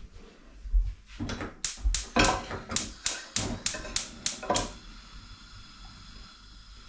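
Kitchen knife chopping onions on a cutting board: a quick run of sharp chops, about four a second, that stops about two-thirds of the way through and leaves a faint steady hum.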